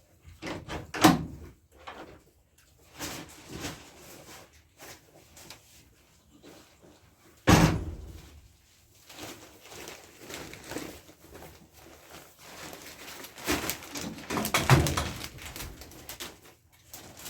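Several knocks and bangs, like a wooden door or gate being knocked or shut: one about a second in, the loudest halfway through, and a cluster near the end, with fainter rustling and handling noise between them.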